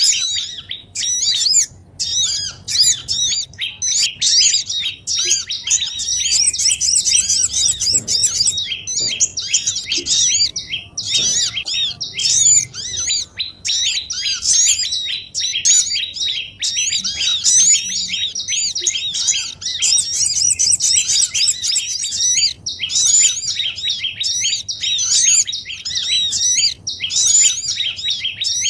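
A dense, busy chorus of small songbirds chirping and twittering rapidly and without letup, all high-pitched notes. It is a bird-lure recording (suara pikat) of small birds' calls, played to draw wild small birds in for trapping.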